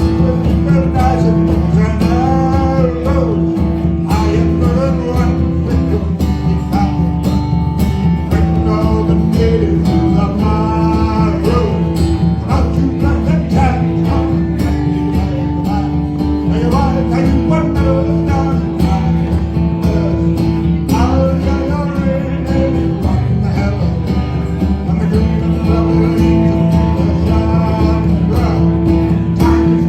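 A live acoustic folk band playing a song: guitar with a melody line moving over steady held low tones, and singing.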